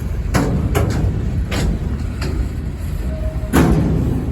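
CSX local freight train's cars rolling past with a steady low rumble and several sharp, irregular clanks.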